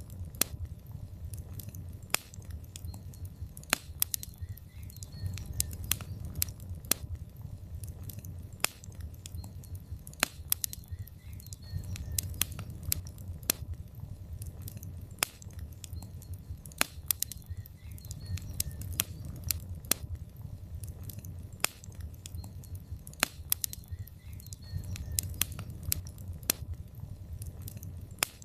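Log fire in a fireplace crackling: irregular sharp pops and snaps, several a second, over a low steady rumble of the flames.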